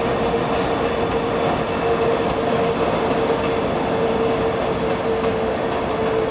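Taiwan Railways local commuter train pulling out of the station, running with a steady rumble and a single steady whine held throughout.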